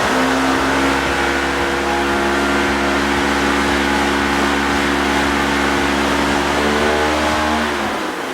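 DJI Mavic 2 Pro hovering in a strong blast of blown air: a steady rush of wind with a motor and propeller hum over it. The hum drops in pitch and cuts out about eight seconds in, together with a low rumble.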